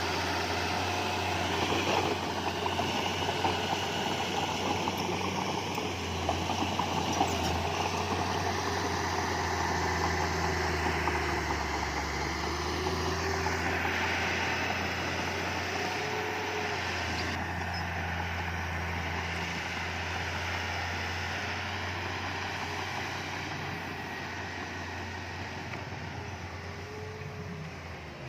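Heavy diesel engine of earthmoving equipment running steadily, with a deep low drone, growing fainter over the last few seconds.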